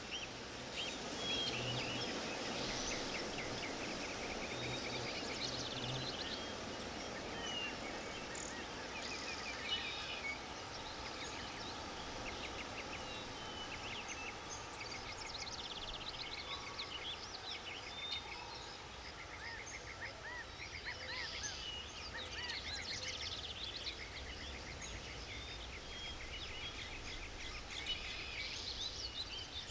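Forest ambience with many small birds singing and chirping, short calls and trills overlapping one another over a steady background hiss.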